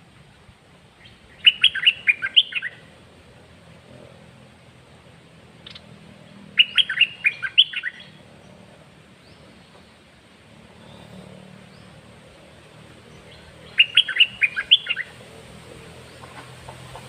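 Caged songbird singing three short phrases, each a quick run of clear notes lasting about a second, several seconds apart.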